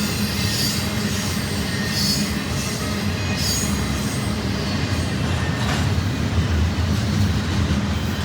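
Intermodal stack train's cars rolling past on the main line: a steady low rumble of wheels on rail, with a few brief high-pitched wheel squeals.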